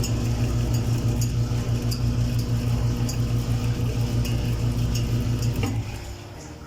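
Washing machine running during a leak test after a pulsator gearbox replacement: a steady electric hum with a regular light ticking, which cuts off near the end.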